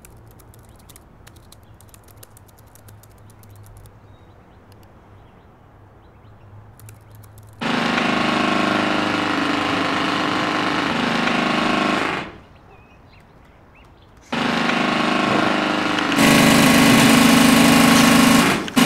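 Faint ticking over quiet room tone, then a loud motor-driven machine starts about 7.5 seconds in, runs steadily for about four seconds, cuts off, and starts again near the end, louder.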